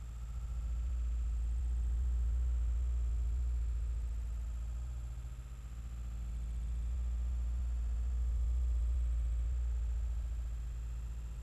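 A steady low hum that slowly swells and fades twice, with a faint, steady high-pitched whine above it; no distinct sounds stand out.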